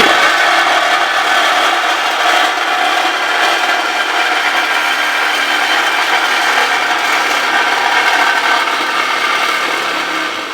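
A power tool cutting, running loudly and steadily, starting and stopping abruptly.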